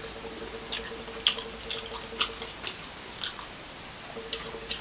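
Close-miked chewing with irregular wet mouth clicks and smacks, someone eating boiled shrimp.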